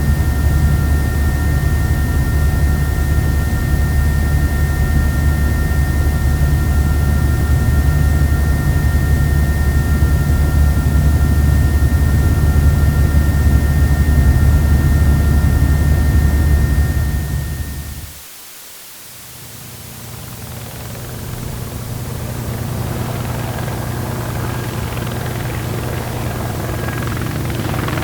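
Helicopter running with a steady low throb and a whine, fading out about seventeen seconds in. After a short gap a second helicopter recording fades in and grows louder toward the end.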